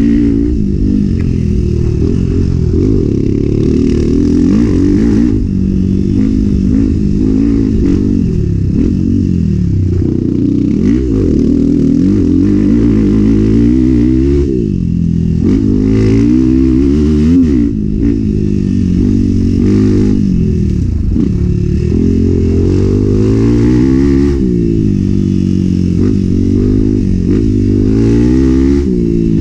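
Enduro motorcycle engine revving up and down again and again under hard riding, with rises on the throttle and drops at gear changes and braking. Light clattering runs through it.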